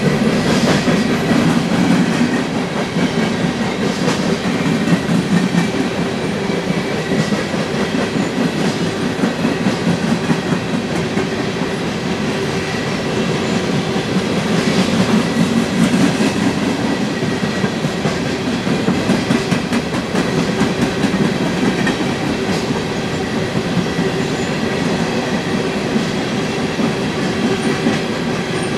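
Empty coal cars of a long freight train rolling past at steady speed. The steel wheels clack over the rail joints above a continuous rumble.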